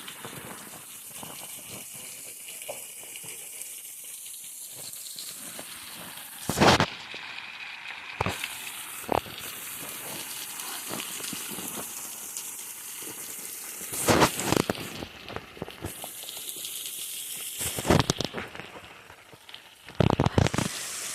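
Steady hiss of water falling at a waterfall, broken by several loud, brief bursts of noise about six, fourteen, eighteen and twenty seconds in.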